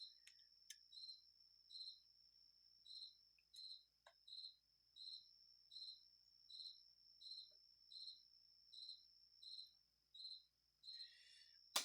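A cricket chirping steadily, short even chirps about twice a second, over a faint steady high whine, with a few faint clicks and a sharp click near the end.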